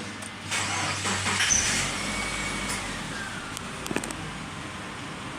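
Subaru Forester's flat-four boxer engine being started: a burst of cranking noise, with the engine catching about a second and a half in. It then settles into a steady idle, with a short falling whine just after it catches and a single click near the end.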